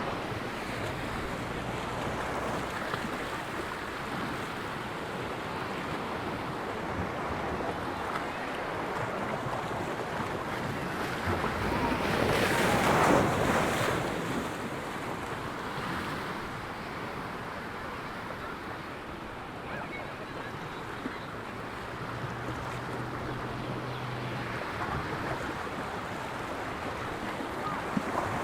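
Ocean surf washing onto a sandy beach, a steady rush with one wave breaking louder about halfway through.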